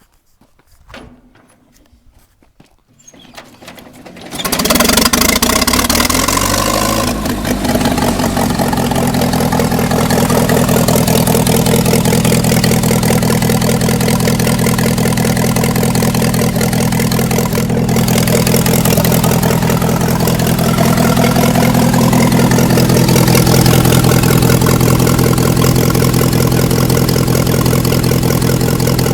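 1969 Hercules four-cylinder gasoline engine starting up about four seconds in: it catches, its speed rises and falls for a few seconds, then it settles into a steady idle.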